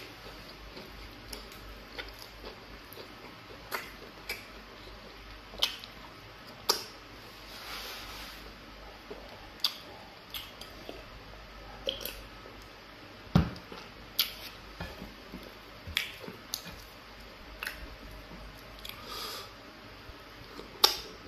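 Close-up eating sounds: wet squishing and chewing of soft yellow starch fufu and egusi soup eaten by hand, with sharp wet lip smacks and clicks every second or two.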